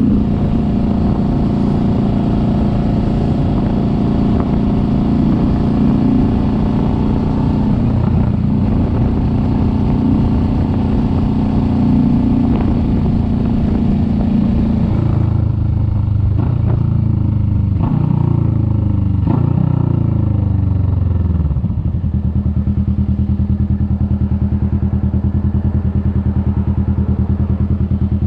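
Kawasaki Vulcan S 650 parallel-twin engine running steadily at road speed with wind hiss, then slowing down through several gears with the revs falling each time, and settling to a steady, evenly pulsing idle for the last several seconds.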